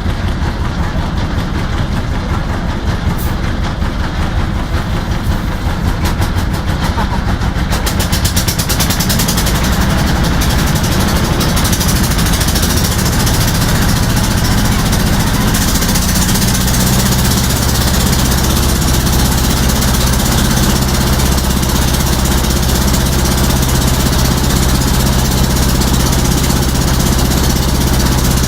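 Boat engine running continuously, its low drone settling into a steadier, even tone about halfway through.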